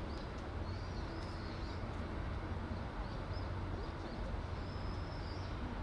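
Small birds chirping in short, repeated high calls over a steady low outdoor rumble.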